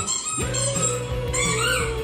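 Music played back from a 'dog noise' video meant to make dogs tilt their heads, with one long wavering whine-like tone held from about half a second in.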